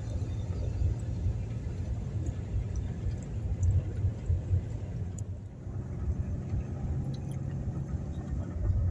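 Wind buffeting the microphone outdoors: a low, uneven rumble with a few faint ticks.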